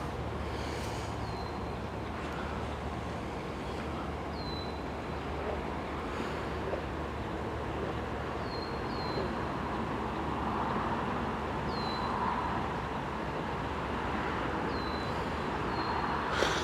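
Low steady rumble of a distant diesel freight train approaching, not yet in sight. Short high chirps that drop in pitch come every couple of seconds on top.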